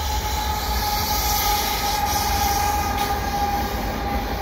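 CN freight train cars rolling past: a steady deep rumble of wheels on rail with a thin, steady high tone from the wheels that fades about three and a half seconds in.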